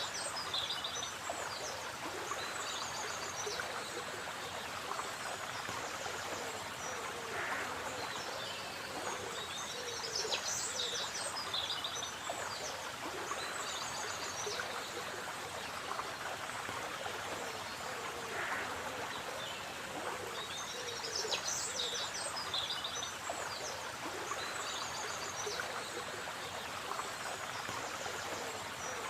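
A stream running steadily, with birds calling and singing over it; a short trilling song phrase comes back about every ten seconds.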